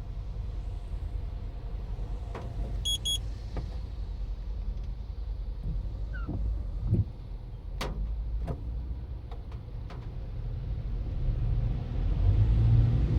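Steady low rumble of a Toyota Ractis car that grows louder near the end. A quick double electronic beep sounds about three seconds in, and a few sharp clicks follow a little later.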